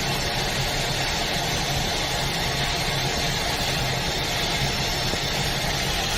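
Airbus A320 turbofan engine running steadily during a cold start at −28 °C, with an even rush and a low hum that holds without rising or falling.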